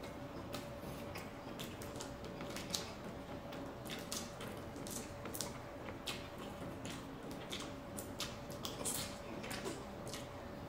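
A person chewing and lip-smacking while eating pancit miki noodles with squid: irregular wet clicks and smacks, several a second, over a faint steady hum.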